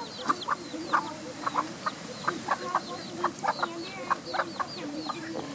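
A hen clucking repeatedly in short calls, mixed with many high, falling peeps of young birds.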